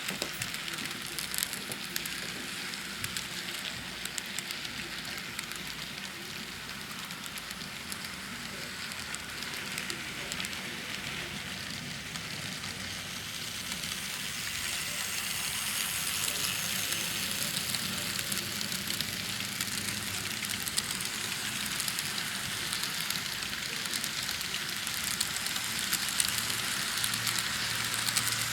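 N scale model trains rolling on Atlas code 55 track: a steady hiss of small metal wheels on rail, peppered with fine clicks. It grows louder about halfway through as a train comes nearer.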